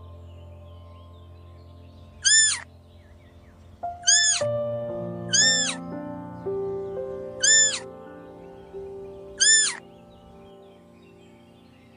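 Five short, high-pitched animal calls about two seconds apart, each rising and then falling in pitch, over background music with held notes.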